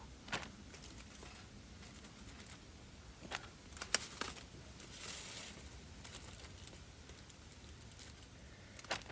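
A few light clicks and taps with a brief rustle, from handling food and utensils during cooking prep, over a faint steady hiss.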